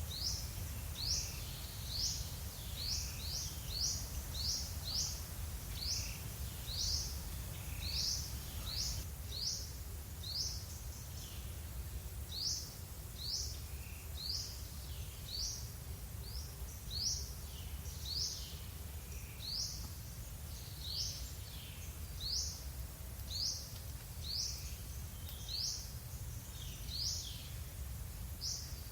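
A songbird repeating a short, high, rising call note over and over, about one to two a second, over a low steady rumble.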